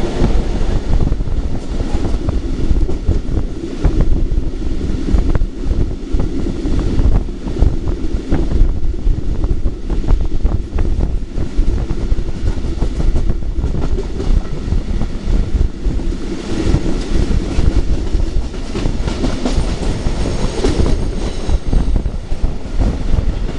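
Historic train of vintage 'Centoporte' coaches, hauled by electric locomotives, rolling past with a continuous heavy rumble. Rapid irregular clicks come from the wheels crossing rail joints throughout.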